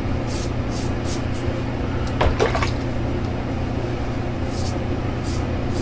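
Short swishing strokes of wet shaving on the face, a few a second, over a steady low hum, pausing in the middle and starting again near the end. A brief voice-like sound comes about two seconds in.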